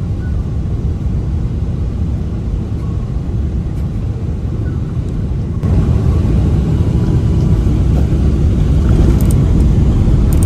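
Steady low rumble of cabin noise inside a Boeing 777-300ER on arrival, the engines and airflow heard from the seat. It gets louder about halfway through, with a few faint clicks near the end.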